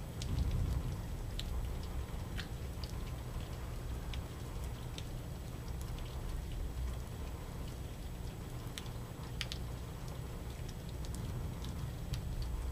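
Rain drips and drops tapping irregularly, a few sharp ticks a second, over a low steady rumble.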